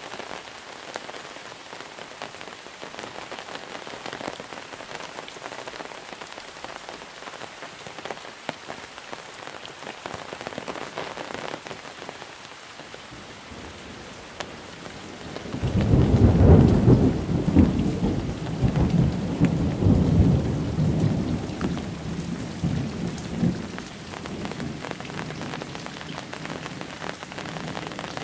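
Steady monsoon rain falling, with a long roll of thunder setting in about halfway through. The rumble is loudest for several seconds, then fades away near the end.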